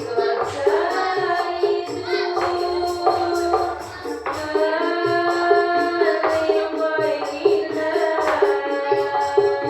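Sholawat sung in the old-style diba' manner: a voice holds long, gliding notes over a steady beat of rebana frame drums.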